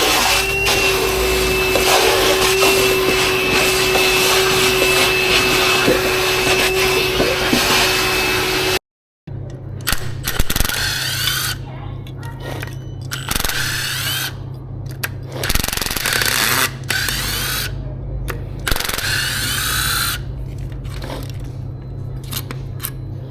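A steady electric motor-driven tool runs for about nine seconds with a constant whine. After a sudden cut, irregular clattering and scraping follow over a low steady hum.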